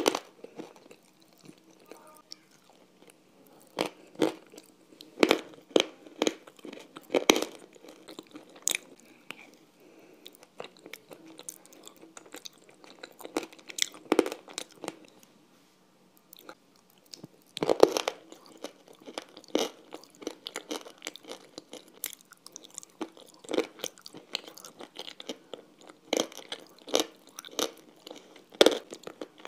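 Close-miked chewing and crunching of a thick grey paste eaten off metal cutlery, with irregular sharp crunches and crackles a few seconds apart.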